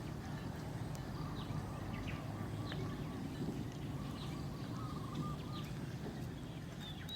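Faint chirping animal calls, short runs of quick repeated notes and brief high falling chips, over a steady low rumble.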